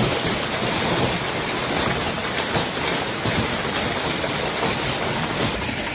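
Hailstorm: hail and heavy rain pelting down in a dense, steady clatter, with the sound shifting slightly near the end.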